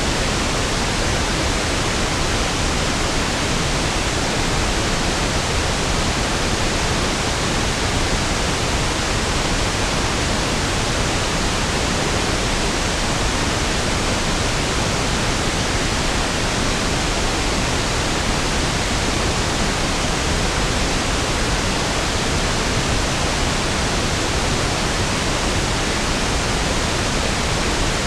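Steady pink noise (1/f noise): an even, unchanging hiss with equal energy per octave, fuller and lower than white noise.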